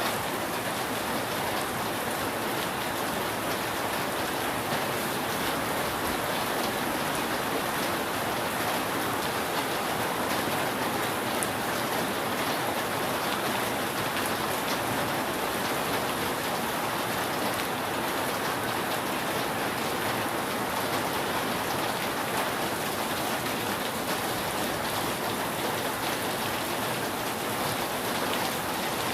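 Steady heavy rain falling on a roof, an even hiss of pattering drops with no thunder.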